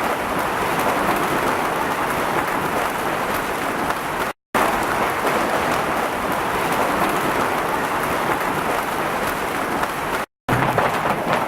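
Hail falling hard and pelting the ground and surfaces around, a dense steady clatter. It breaks off twice for an instant.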